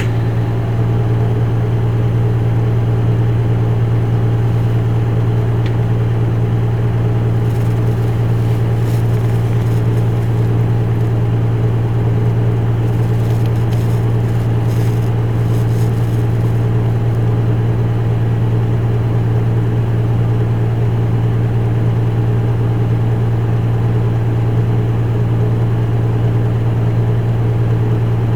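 Isuzu Erga Mio bus's four-cylinder diesel engine idling, heard inside the passenger cabin, with an even, unchanging hum.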